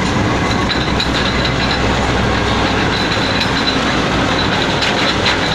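Passenger train running on the track: a loud, steady rumble of wheels and running gear.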